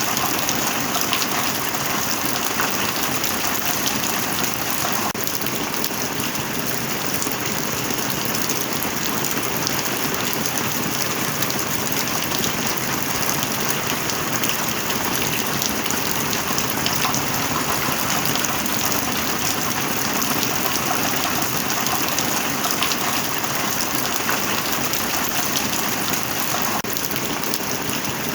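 Heavy rain falling steadily, a dense even hiss of countless drops pattering, with no thunder.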